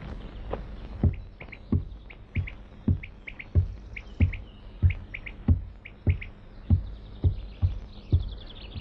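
Small birds chirping in short paired notes over an even run of dull, low thumps, about three every two seconds, which are the loudest sounds.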